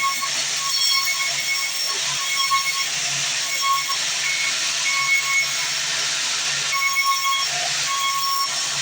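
Sawmill band saw cutting through a log: a steady, loud rasping hiss of the blade in the wood, with a high whine that comes and goes.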